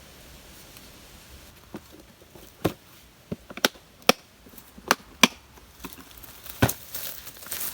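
Wood being chopped with a blade: about eight sharp, irregularly spaced strikes starting a little before two seconds in.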